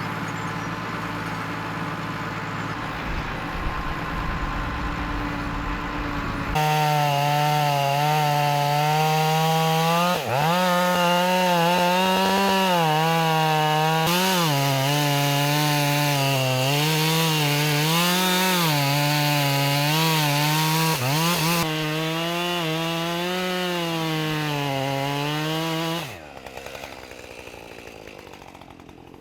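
Two-stroke chainsaw cutting through a fallen tree. It runs steadily at first. About six seconds in it is opened up to full throttle, its pitch dipping and recovering again and again as the chain bites into the wood. Near the end the throttle is let off and the sound drops away.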